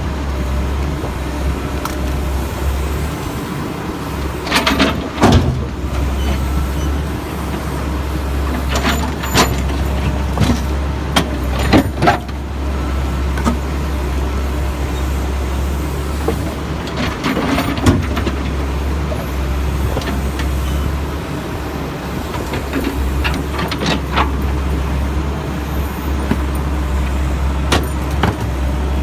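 Backhoe's diesel engine running steadily while it loads broken concrete into a dump truck, with bursts of clattering knocks from the concrete chunks and bucket several times, about every five or six seconds.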